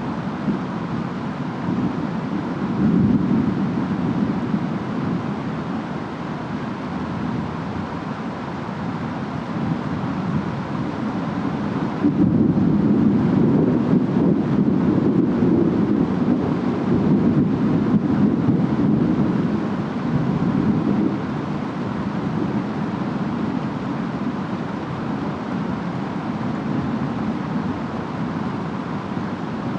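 Steady rain and wind noise from a distant storm. A low rumble of distant thunder swells sharply about twelve seconds in and fades some nine seconds later.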